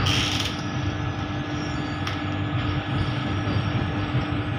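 Vande Bharat electric train running, heard from just behind the driver's cab: a steady rumble with a steady hum, and a short hiss at the very start.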